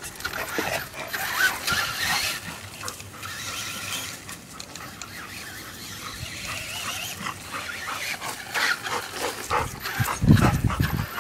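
A dog whining and yelping in high-pitched squeals. Near the end there is a loud low thump.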